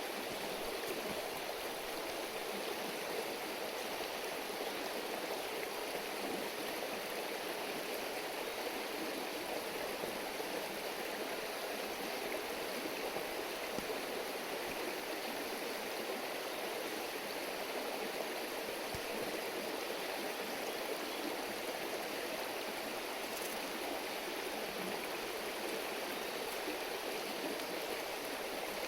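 River stream babbling steadily, with a few faint clicks.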